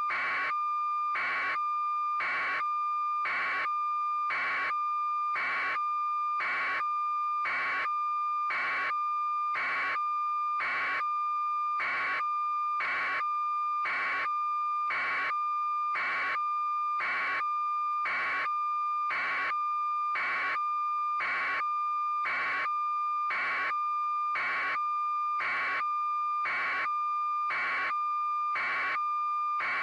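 A steady, high electronic tone with a short pulse about once a second, unchanging throughout.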